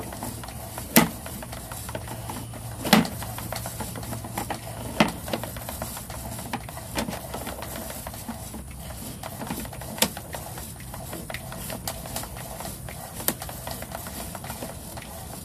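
Sewer inspection camera being pushed along a washing machine drain line: sharp clicks or knocks about every two seconds, irregularly spaced, over a low steady hum that fades out partway through.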